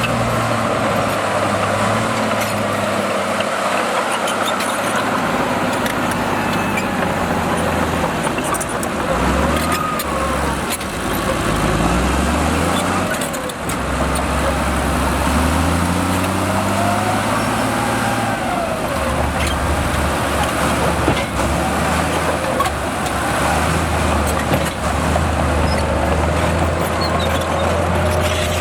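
Heavy diesel earthmoving machinery running continuously, the engine note rising and falling several times as it is worked under changing load, with higher whining tones gliding up and down above it.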